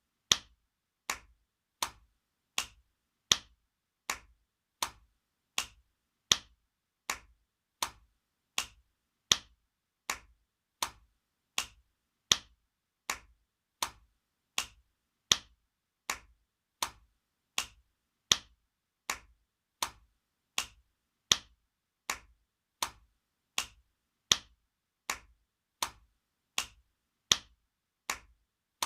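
Spanking sound effect: sharp slaps repeating evenly, about four every three seconds.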